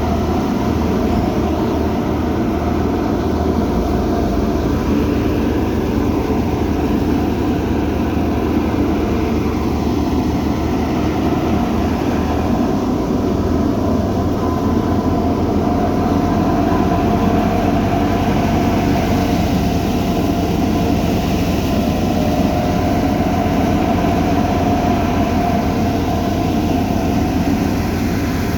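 Wheat-harvesting machinery running steadily: a loud, even engine rumble with a steady mechanical whine over it.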